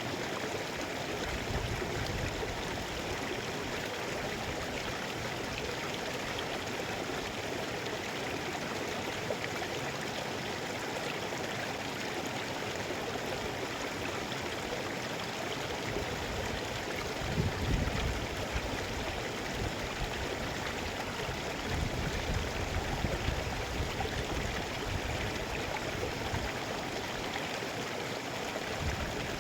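Mountain river flowing steadily: a continuous rush of water, with a few brief low rumbles past the middle.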